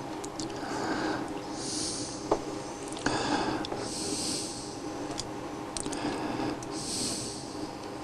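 A person breathing through the nose close to a clip-on microphone, three breaths about three seconds apart, with a few light clicks from small parts being handled.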